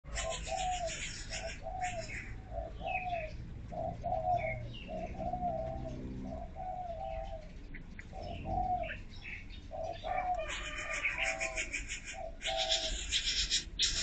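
A bird cooing: a long series of short, low, hooting coos, about two a second with brief pauses. Thin chirps from other birds come in between, and bursts of high, rapidly pulsed buzzing come near the start and again over the last few seconds.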